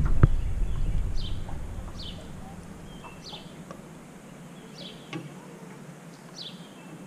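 A bird calling over and over: short, high notes that slide downward, about five of them spaced roughly a second and a half apart. A low rumble fades out over the first two seconds.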